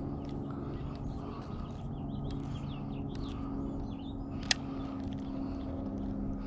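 Birds chirping over a steady low engine drone, with one sharp click about four and a half seconds in.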